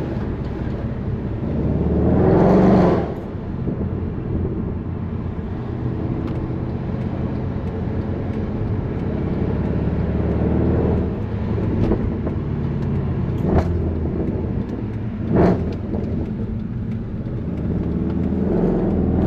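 Straight-piped, naturally aspirated M156 6.2-litre V8 of a 2009 Mercedes C63 AMG running on the road. About two seconds in it revs up hard and then cuts off sharply. Two short sharp pops follow later, and the revs climb again near the end.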